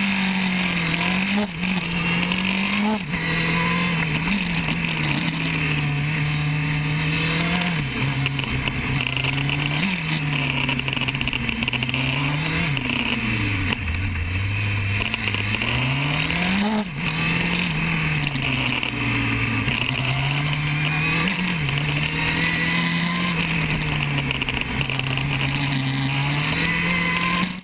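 Honda CB1000R's inline-four engine with an aftermarket exhaust, ridden hard and heard from a camera mounted on the bike. The engine note climbs through each gear and drops sharply at every upshift. About halfway through it falls to low revs under braking, then pulls up through the gears again.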